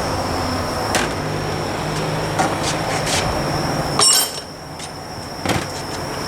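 Sharp metal knocks and clinks from a disassembled kei-truck rear differential's parts being handled, the loudest a ringing metallic clank about four seconds in, over a steady high-pitched whine from the shop.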